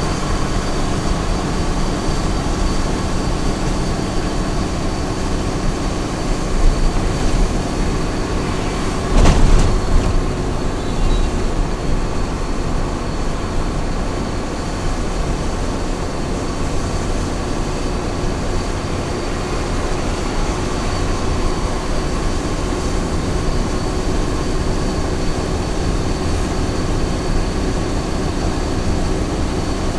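Small truck driving at highway speed: a steady drone of engine and road noise, with a brief louder jolt or thump about nine seconds in.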